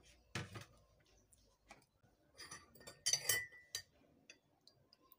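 Quiet kitchen handling sounds: a few separate knocks and clinks of a glass and utensils, one clink ringing briefly about three seconds in.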